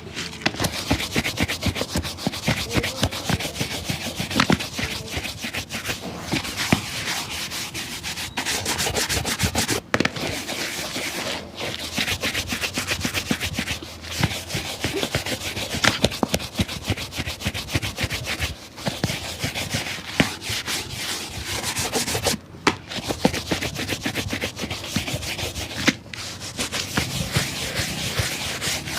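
Quick back-and-forth scrubbing strokes on a shoe, scratchy and continuous, broken by a few short pauses.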